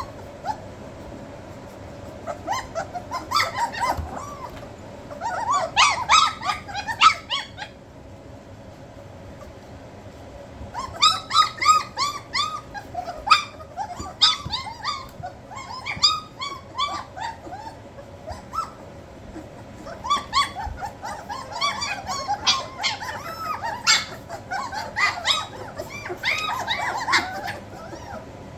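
Three-week-old German Shepherd puppies whimpering and squealing in rapid, high-pitched cries. The cries come in three bursts separated by short lulls, the sound of hungry pups seeking their mother to nurse.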